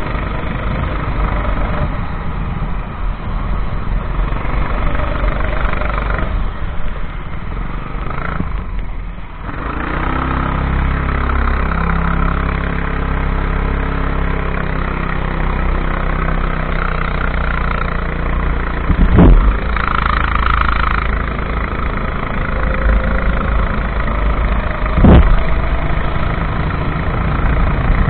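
Kart engine running steadily through a race, the note dropping away about eight seconds in and coming back strongly about ten seconds in. Two sharp knocks sound, one about nineteen seconds in and one near twenty-five seconds.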